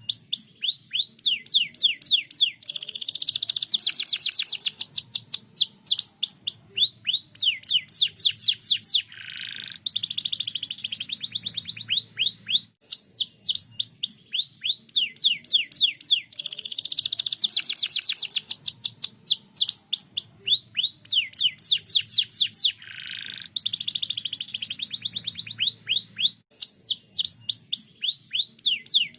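Domestic canary singing continuously and loudly in rapid runs of quickly repeated falling notes and trills, switching from one phrase to the next, with brief breaks about a third of the way through and near the end.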